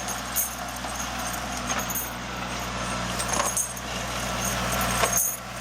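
Tractor engine running steadily as it works on icy snow on chained tyres, with a few sharp clinks.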